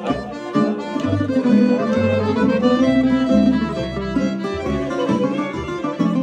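Instrumental tamburica band music: plucked string instruments playing a melody over a steady bass line, with no singing.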